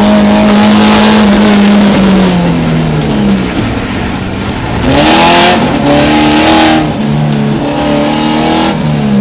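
Alfa 33 4x4's 1.7 16-valve flat-four engine heard from inside the cabin under rally driving. It holds its revs, then they fall away as the car slows. About five seconds in it accelerates hard again, revving up through a few quick upshifts.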